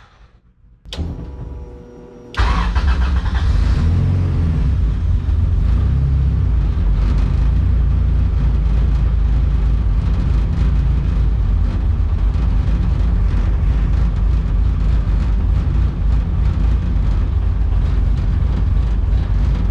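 High-compression Honda B20VTEC four-cylinder engine being started: a click and brief cranking, then it catches about two seconds in and keeps running at a low idle that bounces around 500 to 600 rpm, on a fuel map still in need of tuning.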